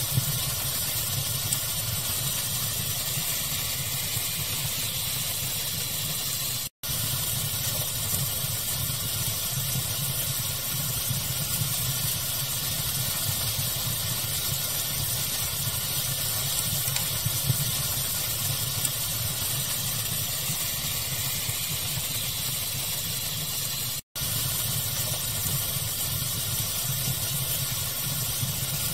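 Steady rushing hiss of pink noise layered with a fire's crackling, the crackles faint and scattered. The sound cuts out to silence for an instant twice.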